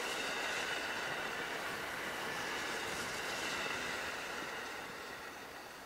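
Twelve-car 681/683-series limited express electric train passing close by, a steady rolling rumble of wheels on rail with a high hiss. The sound fades over the last couple of seconds as the train draws away.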